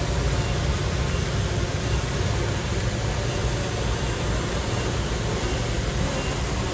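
Diesel engine of heavy earthmoving equipment running steadily: a constant low drone with hiss above it and no separate knocks or changes.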